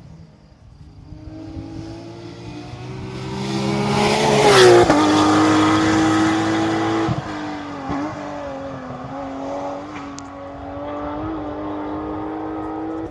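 Rally car engine under hard throttle, growing louder as the car approaches. It passes close about five seconds in, where the engine note drops in pitch, and then keeps running loudly as it drives on.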